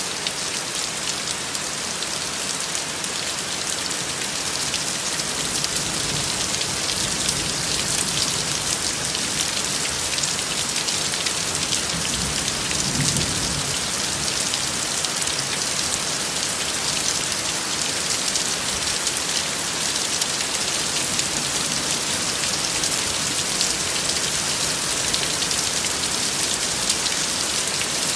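Steady rain falling, an even hiss dense with fine pattering drops. A soft low rumble swells briefly about halfway through.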